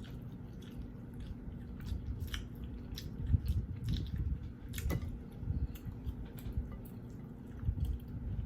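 Close-miked chewing and biting of fried chicken: irregular small clicks and mouth noises over soft low thuds, with a few sharper clicks around the middle.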